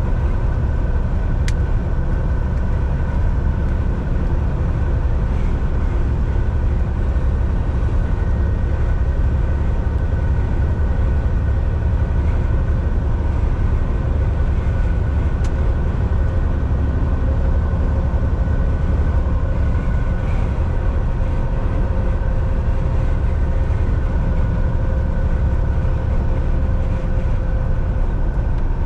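Volvo VNL 760 semi truck cruising at steady highway speed: a constant low engine drone and road rumble with a faint steady whine above it.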